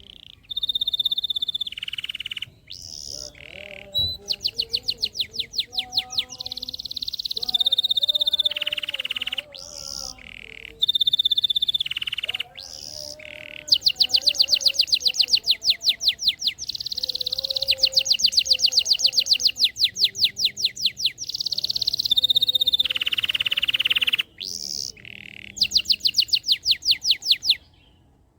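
Domestic canary singing a long, varied song in full voice. Rapid rolling trills of about eight notes a second alternate with held whistled notes and falling slurs, with only brief breaks between phrases.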